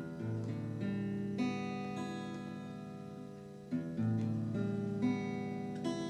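Acoustic guitar played slowly: chords and single notes are struck every half second to a second and left to ring out and fade.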